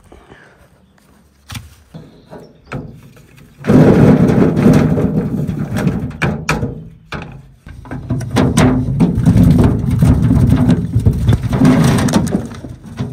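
A few knocks, then the Zetor 3011 tractor's diesel engine starts suddenly about four seconds in and runs loud and rough. It dips briefly about halfway, then picks up again.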